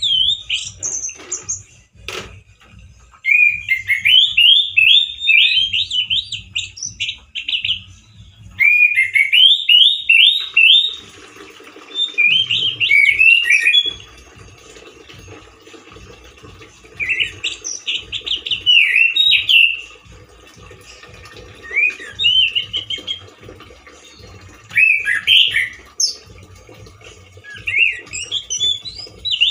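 Male orange-headed thrush singing loudly, in fast phrases of sliding whistled notes that last one to a few seconds, with short pauses between. The song is powerful but still short on variety.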